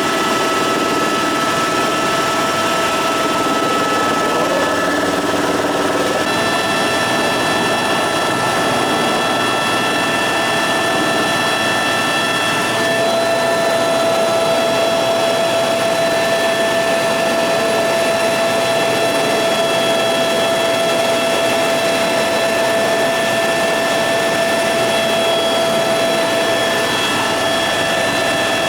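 Helicopter in flight, heard from inside the cabin: a steady loud rush of turbine and rotor noise with a constant high whine. The pitch of the whine shifts slightly twice.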